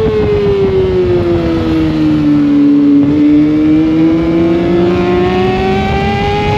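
Sportbike engine heard onboard at speed, its revs sinking steadily for about three seconds as the rider comes off the throttle, then climbing slowly again as it pulls back out under power, with wind and road noise throughout.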